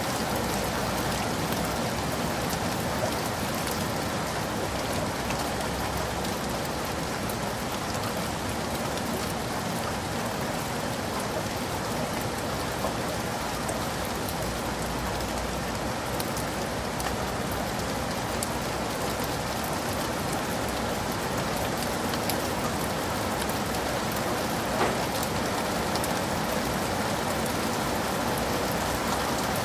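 Heavy rain falling steadily, a dense even hiss of drops hitting surfaces, with a slightly louder drop or splash about 25 seconds in.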